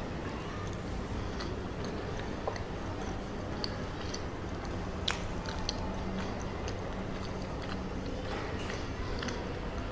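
Close-miked chewing of chocolate cacao mochi: soft, sticky mouth clicks scattered throughout, with one sharper click about five seconds in.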